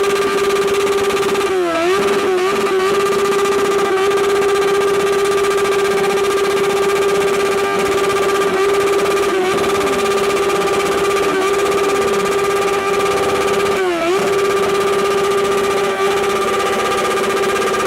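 Kawasaki Z800 inline-four engine revved and held at a steady high pitch through its exhaust, with brief dips in pitch about two seconds in, at about nine seconds and at about fourteen seconds, each recovering at once.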